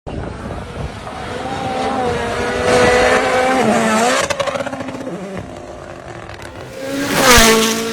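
Rally car engine at high revs, the note rising and dropping with gear changes. About seven seconds in a car passes close, loudest as it goes by, its engine note falling away after.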